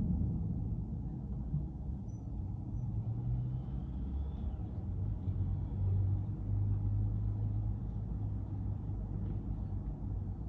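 A car being driven, with a steady low rumble of engine and road noise and a low hum that shifts slightly in pitch.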